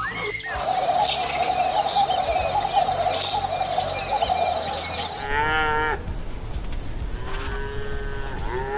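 Cattle mooing: two drawn-out moos in the second half, the second one longer. Before them is a steady background hiss with a few faint bird chirps.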